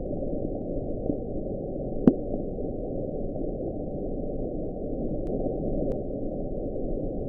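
The "Bloop" hydrophone recording, sped up for playback, a sound NOAA attributes to a large icequake. Here it is a steady low underwater rumble and hiss, with a faint rising sweep about a second in and a sharp click about two seconds in.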